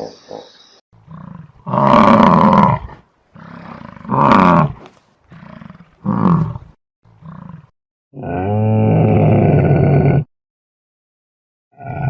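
A large animal roaring: a series of loud calls, each shorter than the one before, then a longer, steady pitched call near the end.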